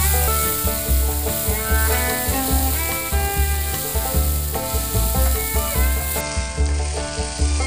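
Sliced mushrooms, onions and garlic sizzling in oil in a nonstick pan while a wooden spatula stirs them. Background music with a steady bass beat plays over it.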